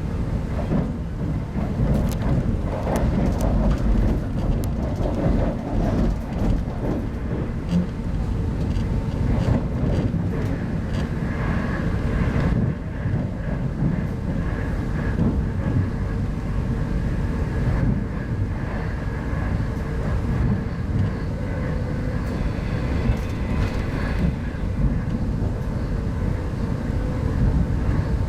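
Steady rumble of a 25T-series soft-seat passenger coach running along the track, heard from inside the carriage, with faint ticks and rattles throughout and a faint steady whine.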